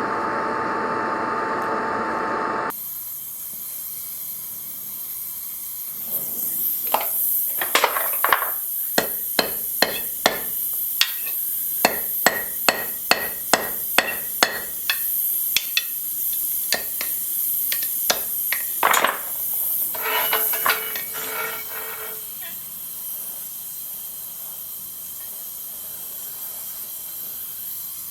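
Hammer blows on steel at the anvil: a run of sharp, ringing strikes, coming about two to three a second at their densest. Before them, a steady machine hum cuts off suddenly, and after them a quieter hiss continues.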